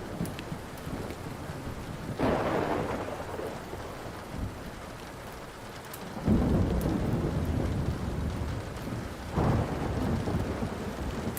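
Thunderstorm with steady rain: thunder rumbles three times, about two seconds in, a longer, deeper one about six seconds in, and another about nine seconds in. Small sharp crackles of a wood fire are scattered over the rain.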